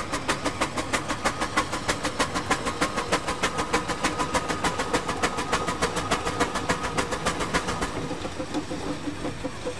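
An engine running with an even, rapid beat of about five or six strokes a second, which fades near the end.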